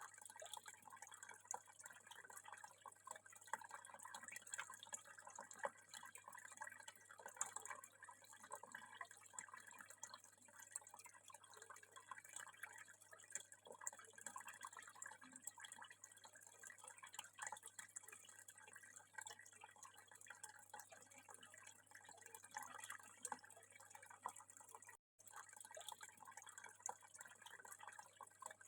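Water trickling and dripping quietly and steadily, a continuous patter of small splashes that cuts out for a split second near the end.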